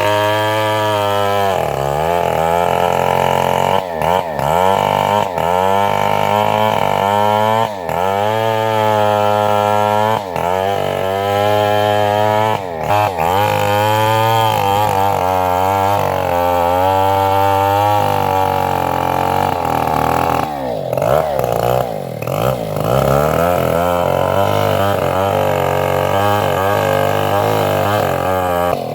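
Engine-driven homemade band sawmill running loud and continuously, its engine pitch dipping and recovering every second or two.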